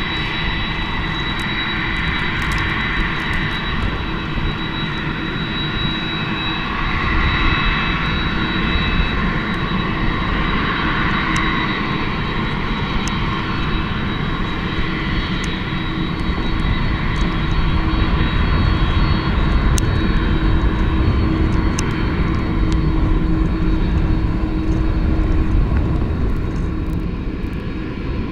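Air Canada Boeing 767-300ER twin jet engines running: a steady whine carried over a broad rumble, swelling louder partway through and easing off near the end.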